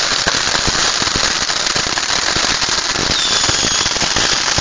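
Fireworks and firecrackers going off in a dense, irregular stream of crackling and popping, with a brief high whistle that falls and then levels off about three seconds in.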